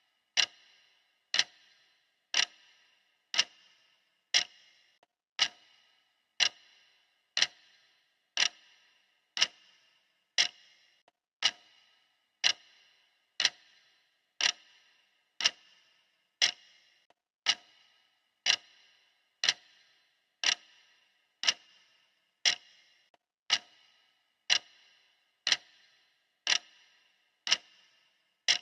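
Clock ticking steadily, one sharp tick about every second, each with a brief metallic ring.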